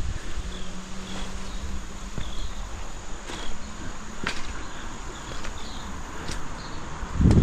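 Insects chirping outdoors: short high chirps repeating irregularly about once a second, over a steady background hiss. A faint low hum runs through the first few seconds, and a low thump comes near the end.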